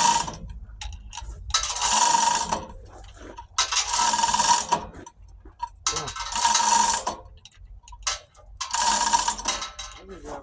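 Hand-worked lifting gear raising an engine out of a truck: a mechanical ratcheting stroke about every two seconds, five strokes in all.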